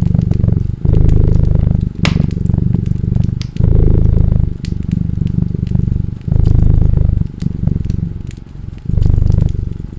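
A cat purring loudly and close up, the purr swelling and breaking with each breath about once a second or so, under the irregular pops and crackles of a wood fire.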